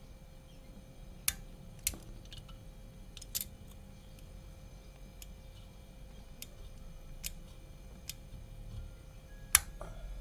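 A handful of sharp clicks and taps scattered over a steady faint hum, the loudest click near the end.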